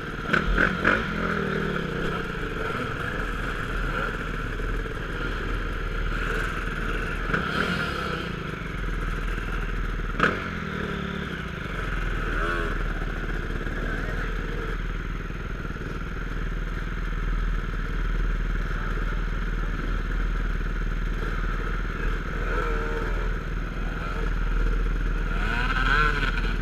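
Off-road motorcycle engines running and revving up and down, with a few sharp knocks and clatters, loudest about a second in and about ten seconds in.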